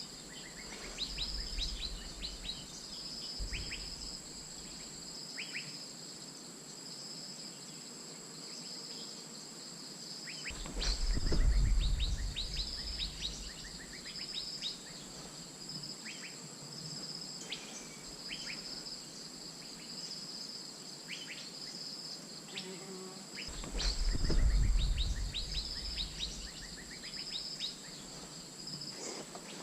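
Asian fairy-bluebird calling, short sharp notes repeated at irregular intervals, over a steady high insect drone. Twice a low rumble rises and fades.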